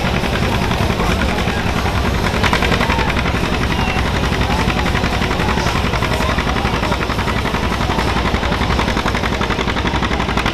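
John Deere pulling tractor's engine running hard under full load during a pull, a loud, steady exhaust with a rapid firing pulse.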